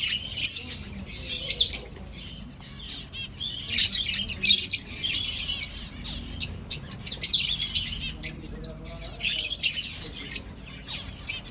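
Many aviary finches chirping and calling together, short high calls overlapping in busy clusters every second or two.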